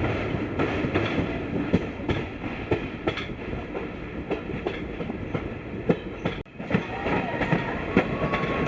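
Passenger train coaches rolling on the rails, wheels clicking over rail joints at irregular intervals; the sound drops out for an instant about six and a half seconds in. Near the end a faint wheel squeal starts, as flanges grind on a curve.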